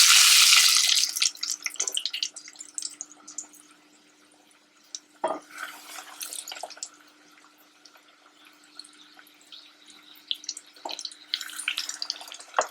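Flour-coated chicken strips going into a pot of hot oil: a loud sizzle for the first second or so, settling into sparse crackling and spitting as they fry.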